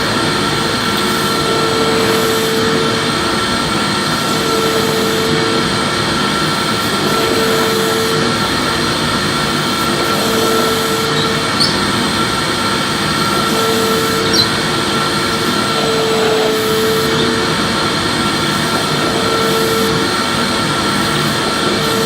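Electric vacuum cleaner running steadily, with a lower hum that swells and fades about every three seconds as the vacuuming goes on. Two faint ticks come around the middle.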